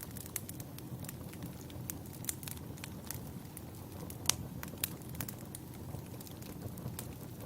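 Burning firewood crackling: irregular sharp pops and snaps over a steady low rumble, with one louder pop about four seconds in.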